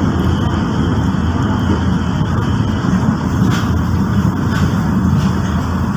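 Steady low rumble of a moving train heard from inside the carriage: running noise of the wheels on the rails, with a few faint clicks.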